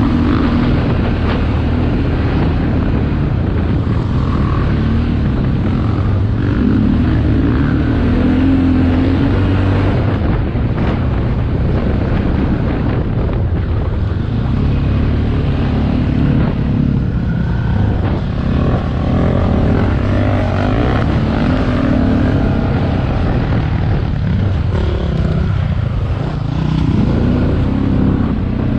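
Motocross motorcycle engine running hard, its pitch rising and falling repeatedly as it revs up and eases off.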